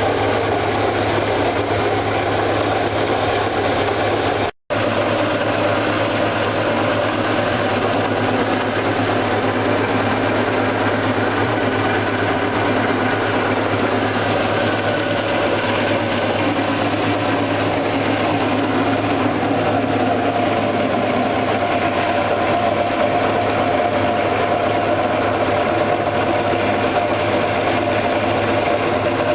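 Antique LeRoi four-cylinder flathead gasoline engine running steadily just after starting. The sound drops out for an instant about four and a half seconds in.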